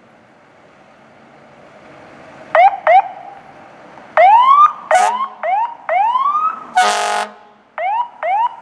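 Fire apparatus electronic siren giving short rising chirps and longer rising whoops over low traffic hum. It starts about two and a half seconds in, with a short air-horn blast about seven seconds in.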